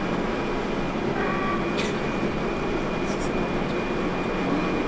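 Steady engine and road noise heard from inside a moving vehicle, an even rumble with a constant low hum.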